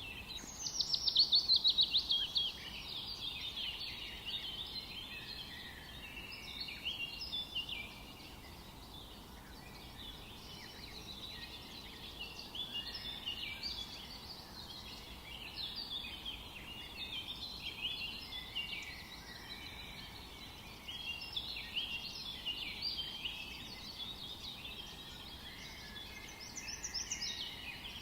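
Several songbirds singing at once, a dense overlapping chorus of chirps and trills, with a loud fast trill about a second in and another near the end, over a faint steady hiss.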